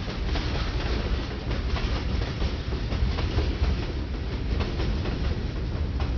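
Freight cars (tank cars, a covered hopper and a gondola) rolling past, with a steady low rumble and repeated clicks as the steel wheels cross rail joints.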